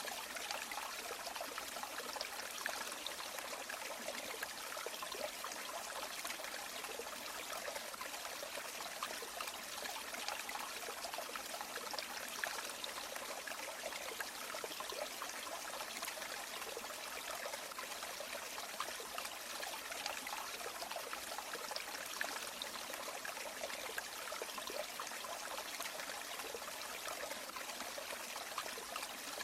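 River water running over stones: a steady rush with small splashes and trickles dotted through it.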